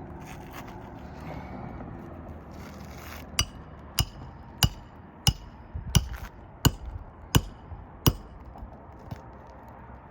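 Hammer striking roofing nails into a new asphalt shingle: eight sharp blows with a metallic ring, about one and a half a second, starting a few seconds in. A low steady hum comes before the blows.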